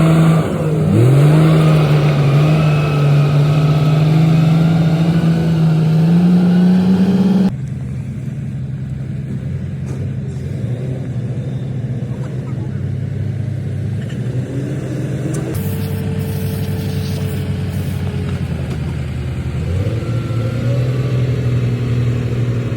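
Komatsu D58P bulldozer's diesel engine working under load. Its note sags about a second in and pulls back up, then drops suddenly to a quieter, lower running about a third of the way through, and picks up again near the end.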